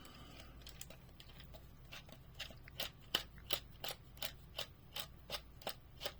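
Hands working a diecast car's packaging: faint handling at first, then from about two seconds in a steady run of light clicks, about three a second.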